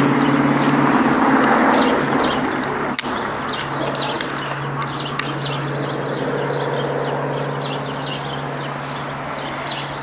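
Small birds chirping in quick, repeated short notes over a steady low mechanical hum, with a single sharp click about three seconds in.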